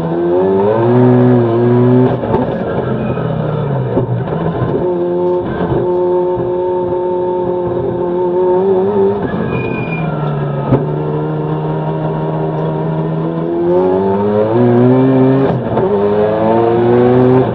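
Gen-1 Mazda RX-7 rally car's engine under way. Its pitch climbs and drops back several times as it pulls through the gears, with a long steady stretch in the middle and another climb near the end.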